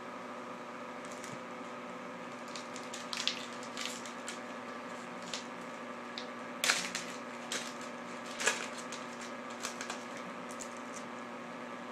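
Yu-Gi-Oh! trading cards and foil booster packs being handled: scattered sharp clicks and crinkles, the loudest about two-thirds of the way through, over a steady low hum.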